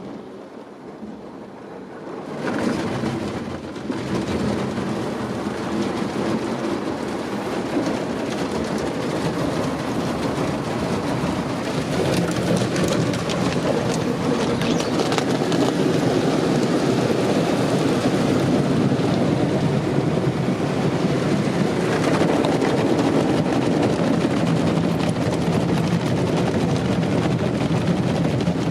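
Ryko Softgloss MAXX rollover car wash machinery running over the car: a steady, loud mechanical din with a low motor hum, starting about two seconds in and growing louder.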